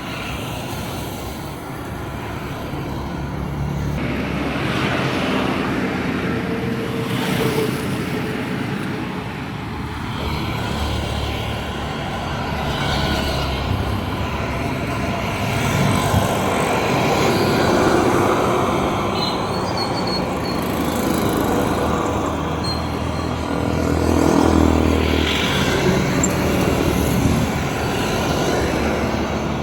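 Road traffic on a town street, with motor vehicles passing one after another and the noise swelling as each goes by. The loudest pass, an engine, comes a little before the end.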